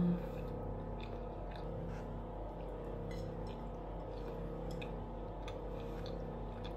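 A person chewing a mouthful of brownie, soft scattered clicks of the chewing, after a short closed-mouth 'mm' right at the start. A steady appliance hum runs underneath.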